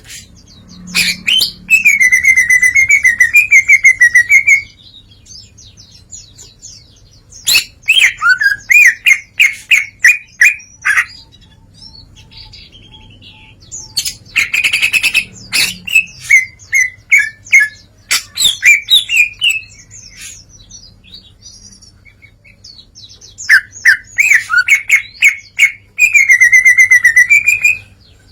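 Green leafbird (cucak ijo) singing loudly in four bursts of rapid, trilled, warbling phrases separated by short pauses, showing off its mimicked repertoire.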